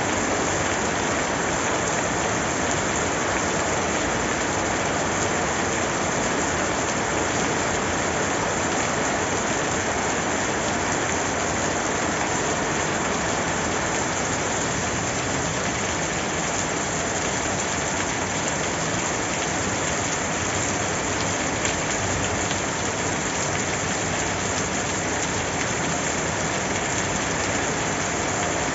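Steady, dense rain falling and pattering on surfaces, as an even hiss with no breaks.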